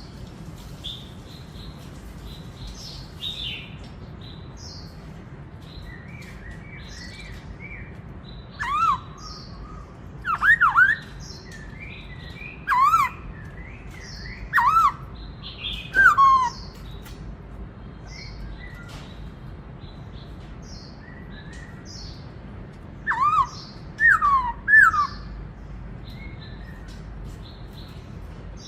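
Black-throated laughingthrush singing: loud, clear whistled notes that dip and then sweep up, in bursts from about eight to seventeen seconds in and again around twenty-three to twenty-five seconds. Softer quick chirps and twitters fill the gaps.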